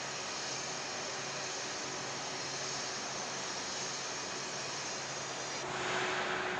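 Steady factory-floor machinery noise, an even hiss with a low hum, shifting near the end to a brighter hiss with a steady hum.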